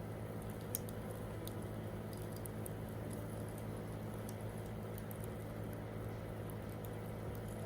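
Wood campfire crackling, with scattered sharp pops over a steady low hum.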